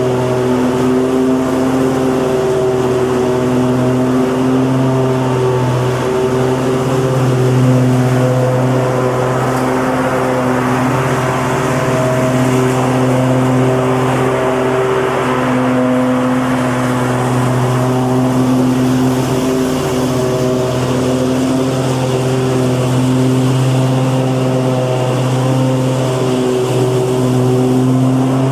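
Lawn mower engine running steadily at a constant speed, a continuous drone whose pitch wavers only slightly.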